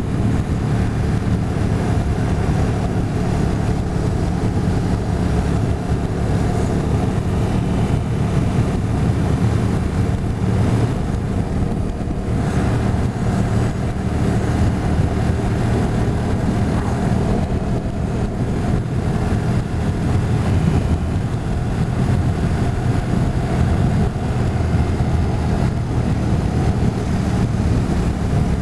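Motorcycle engine running steadily on the move, with a rush of wind and road noise.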